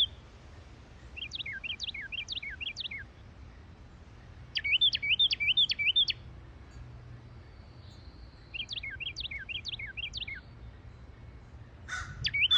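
Two male Carolina wrens counter-singing: a near bird's loud, rolling song phrase alternates with a fainter bird answering in a different song type, back and forth every few seconds. A crow starts cawing near the end.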